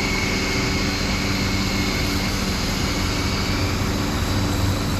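Steady engine drone and road noise of a motor vehicle running close by.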